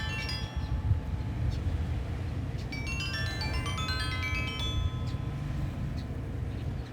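Sanukite stone xylophone tuned to 432 Hz, playing rapid pentatonic runs of bright, ringing notes: one run dies away just after the start and another sweeps through about three seconds in. Beneath the notes runs a steady low rumble of wind on the microphone.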